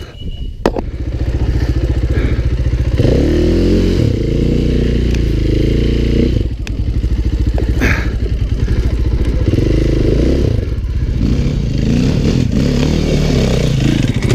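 Dirt bike engine under changing throttle, its pitch rising and falling again and again as it is worked hard over rough trail, with a few clattering knocks. It comes up loud about a second in.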